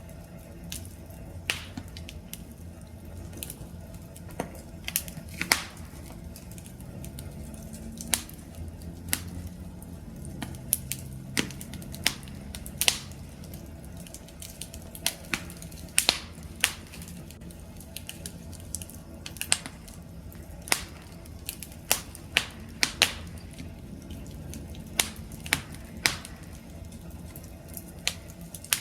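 Wood fire burning with a low steady rumble and frequent sharp, irregular crackles and pops.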